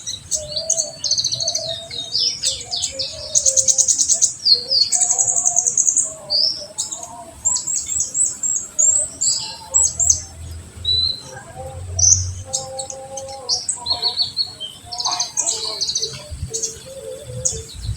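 Kolibri ninja (purple-throated sunbird) song: rapid runs of high, sharp chirps and fast trills in quick succession, with a lower line of short notes underneath. This is the 'full tembakan' rapid-fire song that keepers play to stimulate young birds to sing.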